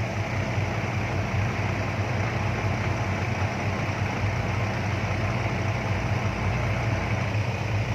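Six-wheel dump truck's engine idling steadily, a low even hum with no change in speed.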